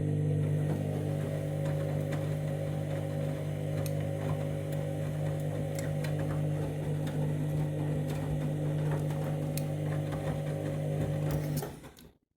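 Candy Grand'O Vita washing machine's drum motor running steadily during the main wash, a low hum with light clicks, stopping about a second before the end.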